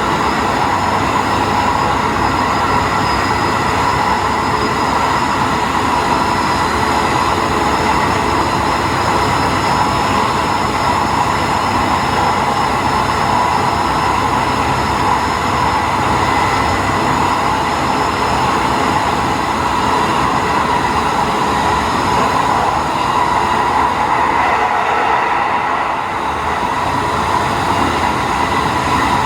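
Diesel railcar running at speed, heard from inside near the front: a steady mix of engine hum and wheel-on-rail noise with a few steady whining tones.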